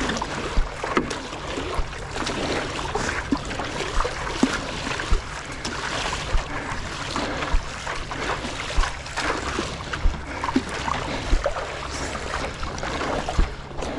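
Stand-up paddle board being paddled on the sea: water splashing and sloshing, with a low thump about once a second as the paddle strokes.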